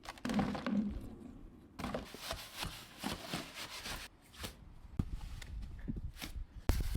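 Irregular scrapes and light knocks from hand work on a stone paving flag, a few seconds of short separate strokes.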